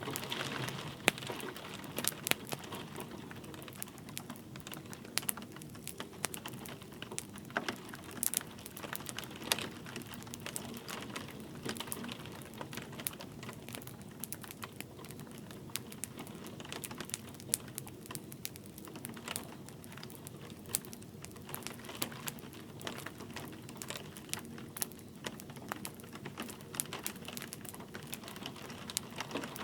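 Wood fire crackling, with irregular sharp pops and snaps, over a steady patter of light rain.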